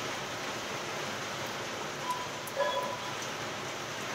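Steady hiss of falling rain, with a brief faint tonal sound about two and a half seconds in.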